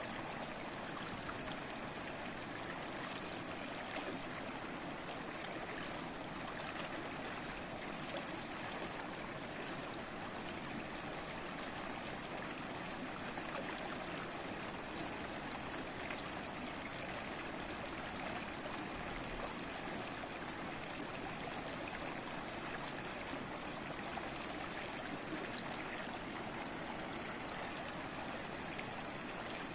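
Babbling stream: running water flowing and trickling steadily, an even rush with no breaks.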